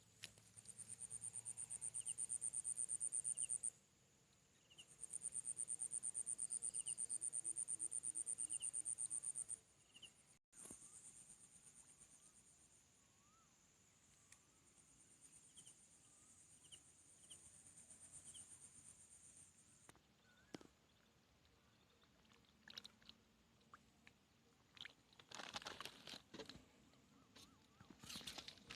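Insects trilling: a high, fast-pulsing buzz in several bouts of a few seconds each, with faint short chirps about once a second. Near the end, a spell of rustling and crunching.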